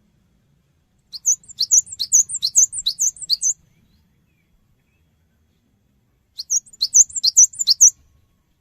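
Cinereous tit (gelatik batu) singing: two phrases of sharp, high, repeated two-part notes, about two or three a second. The first starts about a second in and runs for some two and a half seconds; a shorter second phrase comes near the end.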